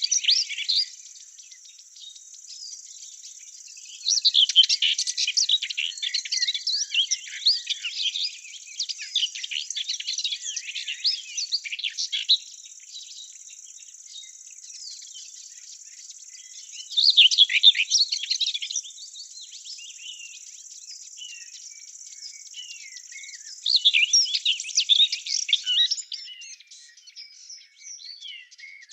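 Forest songbirds singing in spells of quick chirping phrases over a steady high-pitched insect drone. The song is loudest in three spells: about four to twelve seconds in, around seventeen seconds, and around twenty-four seconds.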